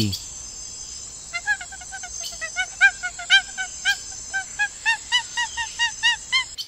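A monkey calling: a quick run of short, high, pitched calls, about four a second, starting a second or so in.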